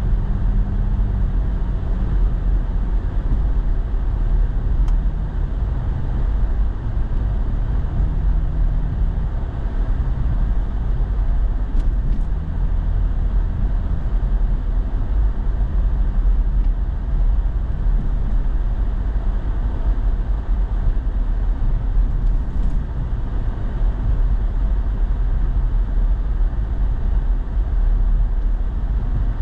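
Truck driving, heard from inside the cab: a steady low rumble of engine and road noise, with a faint engine hum that shifts slightly in pitch in the first several seconds.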